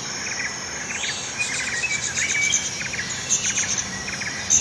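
Birds and insects chirping outdoors: short rapid trills repeat about twice a second over a steady high insect hiss.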